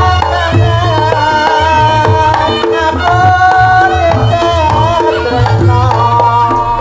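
Reog Ponorogo music: a wavering, bending melody over drumming and a repeating low bass note.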